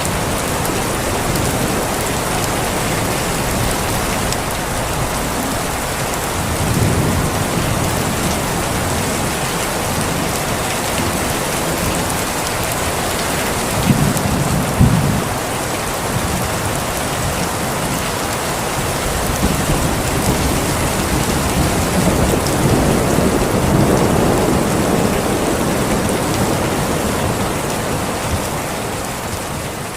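Steady heavy rain falling, with rolls of thunder: a rumble about seven seconds in, two sharper, louder claps around the middle, and a longer rolling rumble through the second half.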